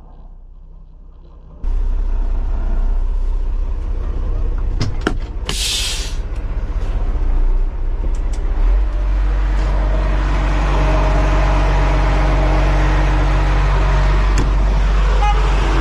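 A heavy truck's diesel engine running steadily, loud and close, starting suddenly about a second and a half in, with a few sharp clicks and a short burst of air hiss around the middle.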